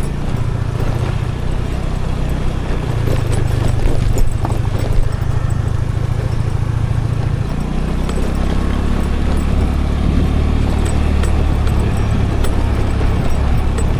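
Scooter engine running under way, with road and wind noise and scattered small knocks; the engine note steps down to a lower pitch about seven and a half seconds in.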